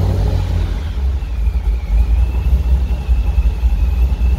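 Supercharged C5 Corvette Z06's 5.7-litre LS6 V8, with a TSP cam, long-tube headers and a near-straight-piped titanium exhaust, idling just after start-up with a deep, loud rumble. A faint steady high whine joins about a second in.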